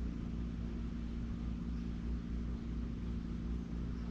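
Steady mechanical hum from an engine or motor running, with a low rumble underneath.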